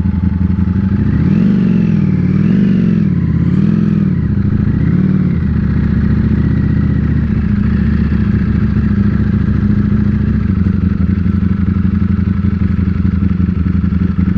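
Ducati Panigale V4 S's V4 engine running, its note rising and falling four times in quick succession over the first few seconds, then holding steady.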